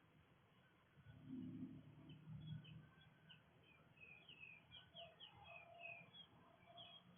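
Faint songbird chirps outdoors: a quick string of many short, high chirps that starts about three seconds in and runs on, with a short lower warble in the middle, over a low rumble early on.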